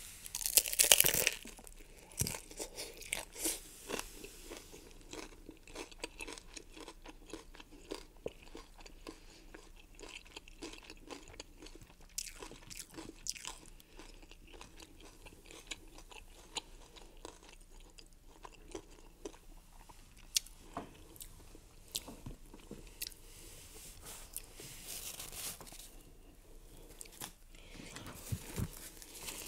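A loud crunching bite into a hard-shell crunchy taco about a second in, followed by close-up chewing with many small crunches of the taco shell.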